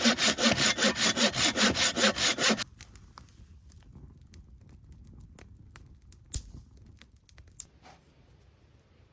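Hand saw cutting through wood in quick, even strokes, about five a second, which stop abruptly about two and a half seconds in. Faint scattered clicks follow, with two sharper knocks later on.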